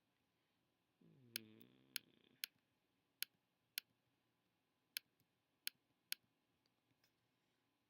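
Computer mouse clicking: about eight sharp, separate clicks at an uneven pace. About a second in, a man gives a short low hum.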